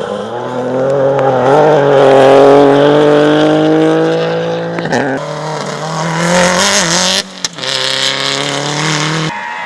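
A rally car's engine at full throttle, its pitch climbing steadily for a few seconds. It drops with a gear change about five seconds in and pulls hard again. A burst of hiss comes with it around six to seven seconds.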